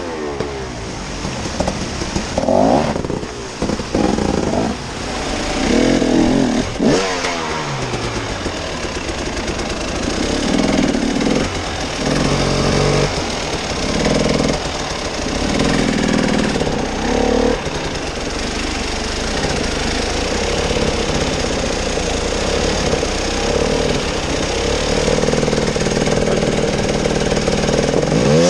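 Engine of an off-road vehicle revving up and down in repeated surges, working hard over rough terrain.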